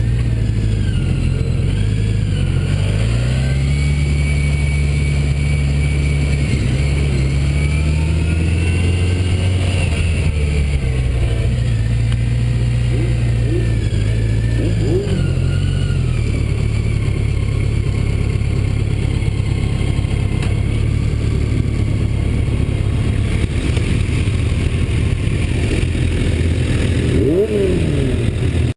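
Motorcycle engine running at road speed, its pitch stepping up and down a few times as the bike shifts gears and changes speed, under a constant rush of wind noise.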